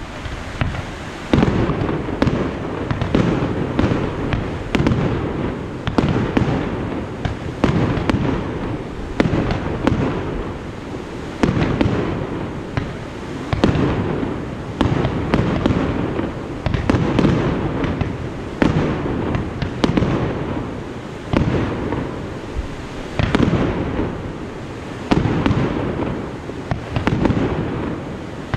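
Aerial fireworks shells bursting one after another, a bang every second or two, each trailing off into a low rumbling echo.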